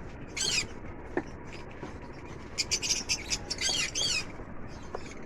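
Lovebirds' shrill chattering calls: a short burst about half a second in, then a denser run of sharp, down-sweeping squawks in the middle.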